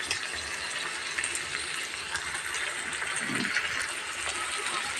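Boneless chicken pieces sizzling in a little oil in a thick-bottomed pan, a steady hiss.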